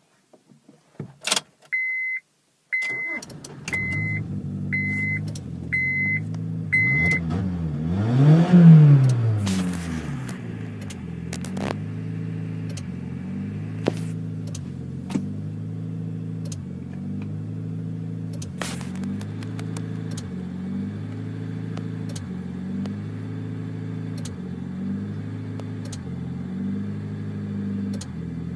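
Honda Civic's D17A1 1.7-litre four-cylinder engine started while a dashboard chime beeps six times, about once a second; the revs flare up and drop back, then it idles unevenly, rising and falling about once a second. This is the rough, hunting idle of an engine that will not idle properly, which the owner traced to a failed ECM.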